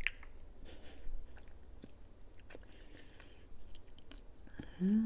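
Close-miked chewing of a soft Kyoho grape jelly: small wet squishes and clicks of the mouth, with a short hummed 'mmm' that rises and falls in pitch near the end.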